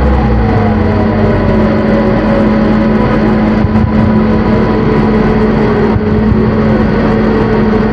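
Loud electronic drone-synth noise music: a steady low drone under a dense wash of noise, with pitches gliding slowly downward over it. The deepest bass drops out about half a second in.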